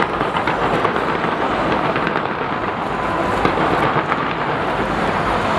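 Fireworks display going off: a dense, continuous rumble of many overlapping bursts and crackles.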